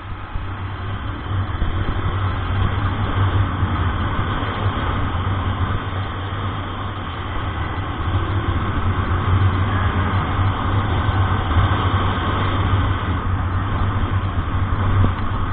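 Truck engine running steadily while driving, a low steady hum under a continuous hiss of road noise.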